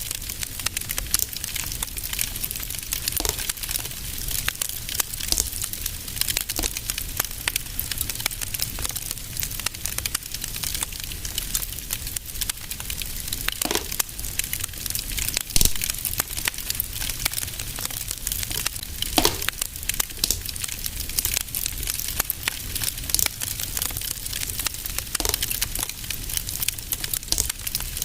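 Fire in a fireplace crackling steadily with many small quick clicks, and a few louder pops, the biggest about halfway through and another a few seconds later.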